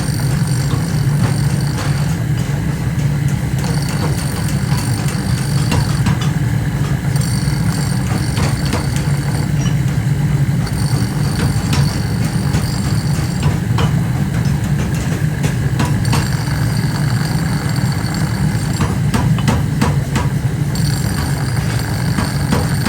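Factory machinery running with a steady, heavy low hum, with irregular short metallic knocks and clanks over it and a high ringing that comes and goes every few seconds.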